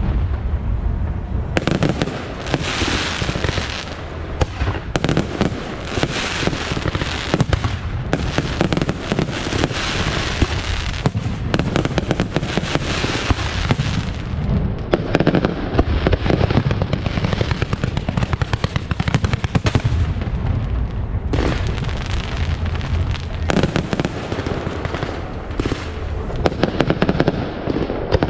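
Aerial fireworks show: a dense, continuous barrage of shell bursts and crackling, with a steady low rumble underneath.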